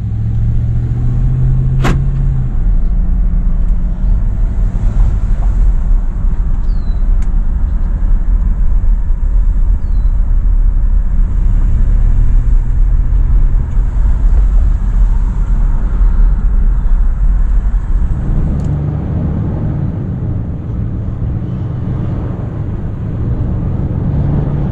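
2011 Ram 1500's 5.7-litre HEMI V8 pickup truck driving, engine note rising and falling under a steady low road rumble. A sharp click about two seconds in.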